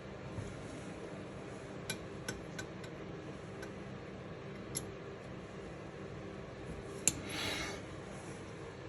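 Light metallic clicks and clinks of small valve-train parts being handled as a shim is added under a valve spring seat, several scattered ticks, then a sharper click about seven seconds in followed by a brief scraping swish.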